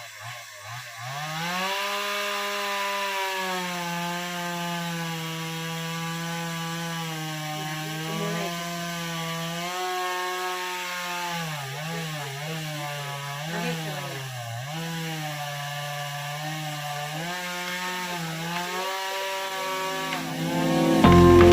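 Two-stroke chainsaw revving up about a second in and running at high throttle, its pitch dipping and wavering several times as the chain bites into the wood of the fallen tree.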